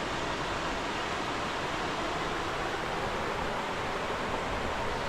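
Small creek waterfall: a steady rush of falling water.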